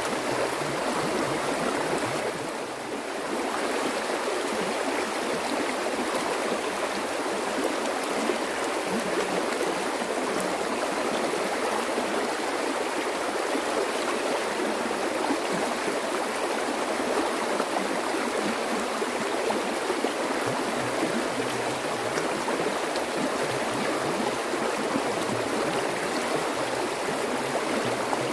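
Flowing stream water, a steady rushing splash that dips slightly for a moment about three seconds in.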